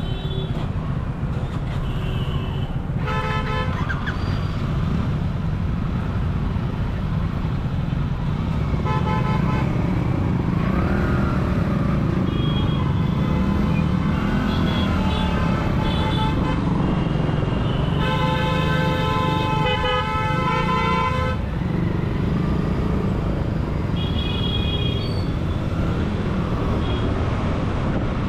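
Royal Enfield Continental GT 650's parallel-twin engine running steadily while riding in traffic, with vehicle horns honking around it: several short honks and one long horn blast about two-thirds of the way through.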